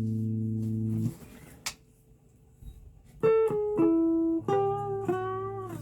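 Guitar playing: a held chord rings and is muted about a second in, followed by a single click. After a short pause, four single notes are plucked one after another, a couple of them bent slightly in pitch.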